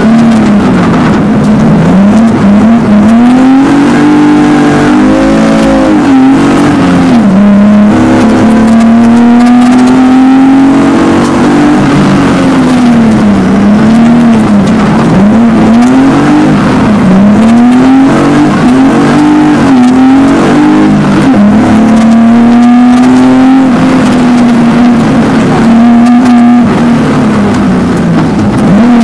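Rally car engine heard from inside the cockpit, driven hard on a stage: the engine note climbs under full throttle and drops back again and again, every second or two, through gear changes and lifts for bends.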